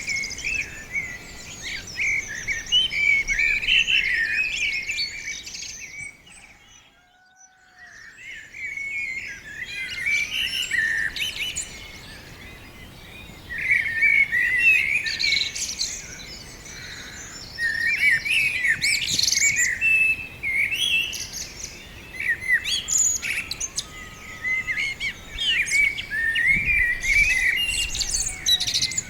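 Small songbirds chirping and twittering from a tree, several calls overlapping in a fast, busy chorus. The chorus drops away almost to silence for about two seconds, around six seconds in, then resumes.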